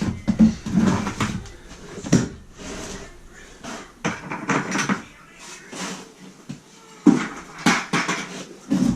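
Trowel scraping and spreading thinset mortar onto a plywood subfloor in a series of irregular strokes with a few knocks, pressing the mortar into the wood.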